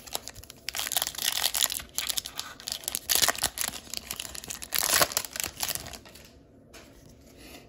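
Plastic wrapper of a hockey card pack being torn open and crinkled, a dense crackling for about five seconds that dies down near the end.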